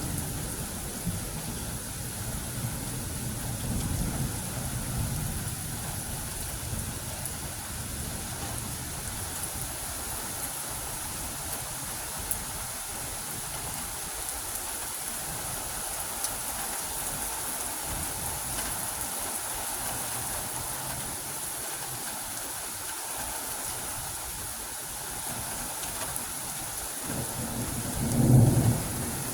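Steady rain with thunder during a thunderstorm. Low rumbling fades over the first few seconds, and a loud thunder rumble swells near the end.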